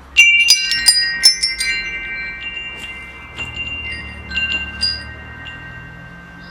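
Metal wind chimes struck in a quick flurry of clangs starting about a quarter second in, ringing on at several steady pitches. A few lighter strikes follow between about three and a half and five seconds in.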